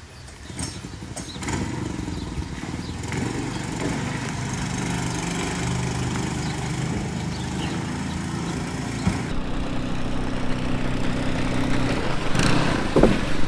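Small gas engine of a mud-motor outboard on a boat, which catches about a second and a half in after a few short knocks. It then runs steadily, somewhat louder near the end.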